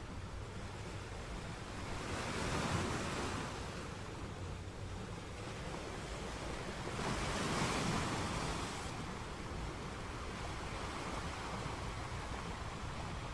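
Ocean waves washing onto shore, each wave's surge rising and falling away, twice in a few seconds, over a steady low rumble of surf.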